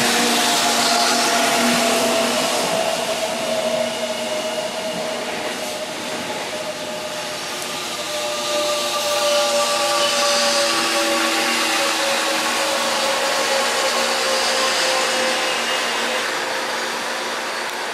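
Seoul Line 1 electric commuter train rolling in along the platform and slowing. A motor whine falls steadily in pitch over the hiss and rumble of the cars passing.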